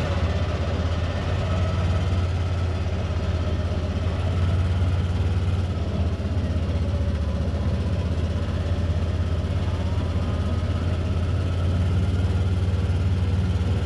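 A vehicle engine running steadily, a low, even hum with no change in pace.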